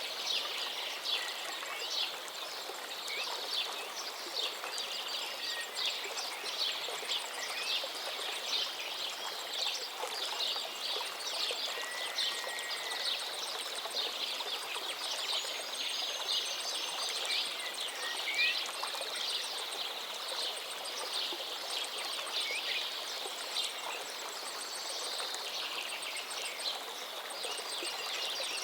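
Forest river flowing steadily with a constant babble of water, and songbirds calling now and then over it with short chirps and whistles.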